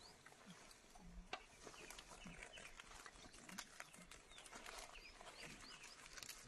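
Faint background of small birds chirping: many short, high chirps scattered throughout over a quiet outdoor hush.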